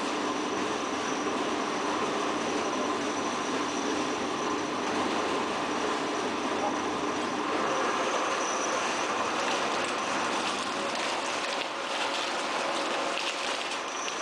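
Tire recycling line machinery running: a steady mechanical din with a few faint steady whines, and some light clattering near the end.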